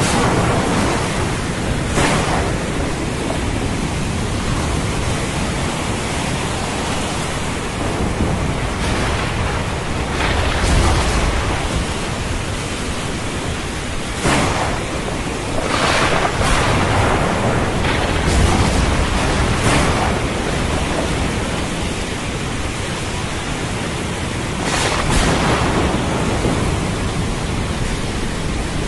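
Thunderstorm: steady heavy rain with thunder, several sharp cracks and a few low rumbles rolling in over it.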